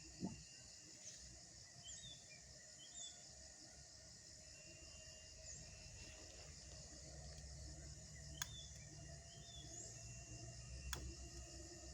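Faint outdoor night-time ambience: a steady, high, pulsing insect drone with scattered short chirps, and two sharp clicks late on.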